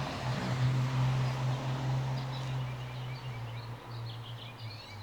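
Small birds chirping in short, repeated high notes that start about two seconds in and grow more frequent. Under them, a low steady hum with a rushing noise fades away.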